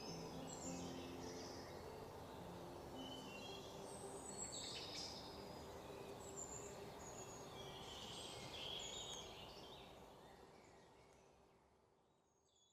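Faint outdoor ambience with small birds chirping and twittering over a steady hiss, fading out gradually in the last few seconds.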